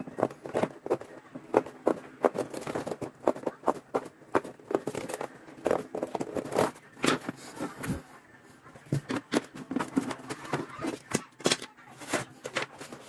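A quick, irregular run of clicks, taps and scrapes, with a brief lull about eight seconds in.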